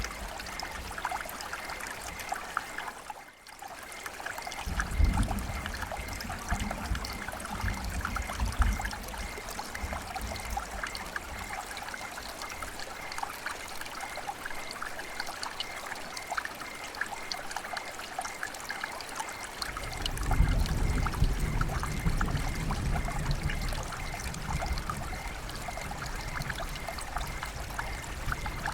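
River water flowing and trickling, a steady rush full of small splashes. The level drops briefly about three seconds in, and a low rumble swells under the water twice, once around five seconds in and again around twenty seconds in.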